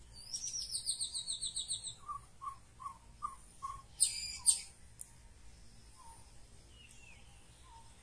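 Wild birds calling in forest scrub. A fast, high descending trill lasts about a second and a half, then come five evenly spaced lower notes, then two short harsh high bursts about four seconds in, and a few faint calls after that.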